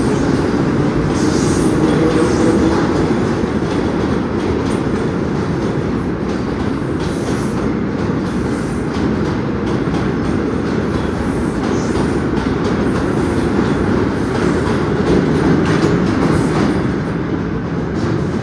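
New York City subway train running at speed, a steady loud rumble of wheels on rails with scattered clicks throughout.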